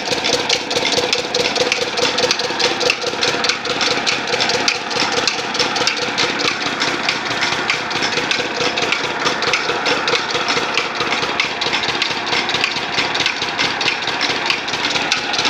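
Engine running steadily at idle, an even, rapid firing beat with no change in speed.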